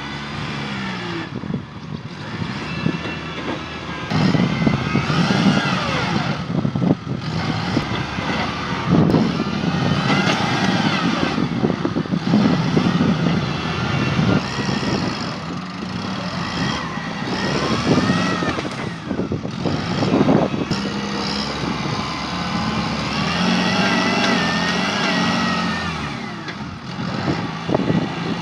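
Tractor engine running hard under load, its pitch repeatedly rising and falling as it revs up and bogs down.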